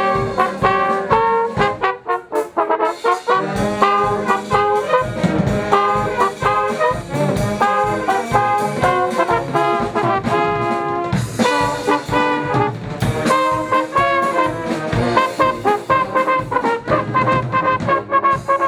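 A live wind band playing a tune, with trombones and trumpets to the fore. The band thins out briefly about two seconds in, then comes back in full.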